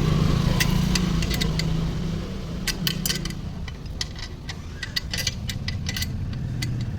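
Light metallic clinks and rattles of tools and parts being handled, over a low steady hum that fades about two seconds in.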